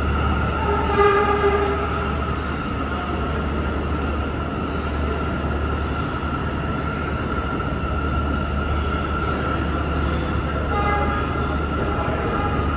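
New York City subway train running, with a steady high whine over a low hum. Short pitched tones sound about a second in and again near the end.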